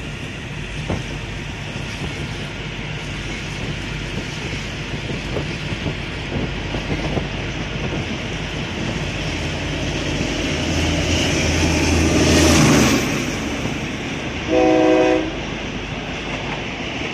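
Passenger train running on the rails, heard from aboard as a steady rumble and wheel clatter that swells to a loud rush about two-thirds through. A short train horn blast sounds once near the end.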